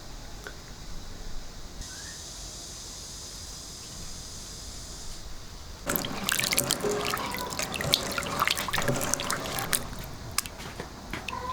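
Water pouring and splashing, starting suddenly about six seconds in and continuing as a dense, crackly spatter, after a few quieter seconds with a steady high hiss.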